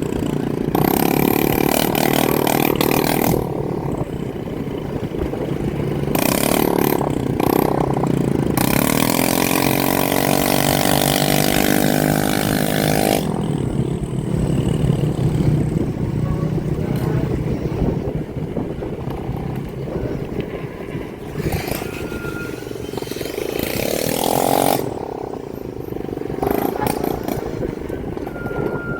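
Motorcycle and dirt-bike engines running and revving. About nine seconds in, one engine revs up in a rising whine and holds high for a few seconds.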